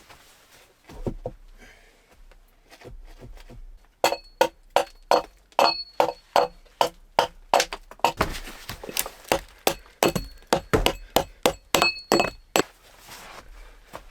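A rapid series of hard blows from a hand tool, about three a second, some with a faint metallic ring, starting about four seconds in and stopping sharply near the end.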